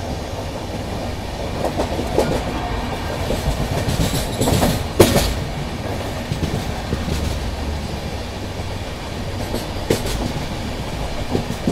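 Indian Railways express passenger train running, heard from an open coach door: a steady rumble of wheels on the rails with clickety-clack from the rail joints, and one sharp clack about five seconds in.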